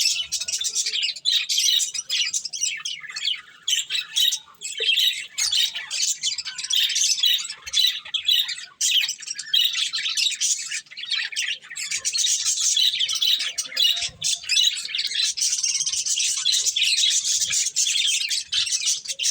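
Budgerigars chirping and chattering in a dense, continuous stream of high chirps.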